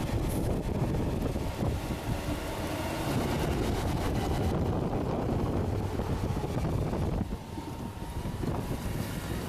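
Heavy truck engine running steadily, with wind buffeting the microphone; the sound eases a little about seven seconds in.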